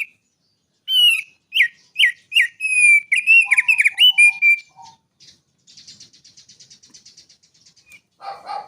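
Small songbird singing: a rapid run of clear, sharply bending whistled notes starting about a second in, followed by a fast, soft, even chattering trill.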